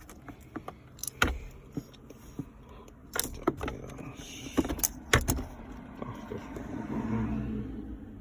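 Scattered handling sounds: about half a dozen sharp clicks and knocks, several of them close together about five seconds in, with a soft low rustle or murmur near the end.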